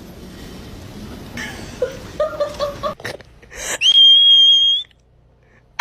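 A few short squeaky notes, then one high, steady whistling tone lasting about a second, which cuts off abruptly.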